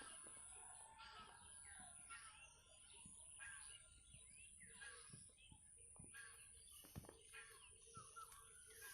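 Faint chorus of small birds chirping and twittering, many short overlapping calls, over a steady high-pitched tone.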